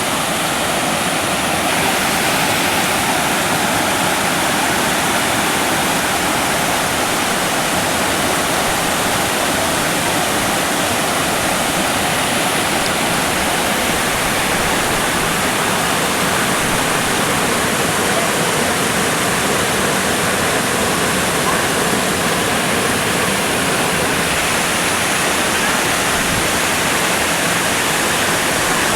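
Waterfall pouring down in a steady, loud rush of water.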